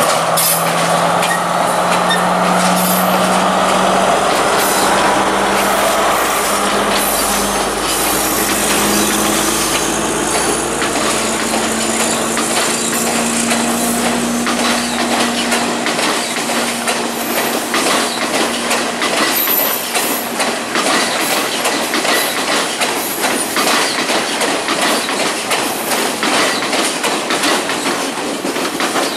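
Diesel multiple-unit trains passing over yard tracks and points. A steady engine drone fades about halfway through and gives way to rapid clickety-clack of wheels over rail joints and switches.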